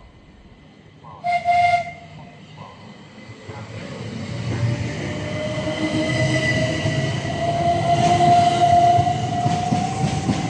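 Electric multiple-unit train sounding a short horn toot about a second in, then approaching through the station with a steady whine that rises slightly in pitch and grows louder over wheel and rail noise.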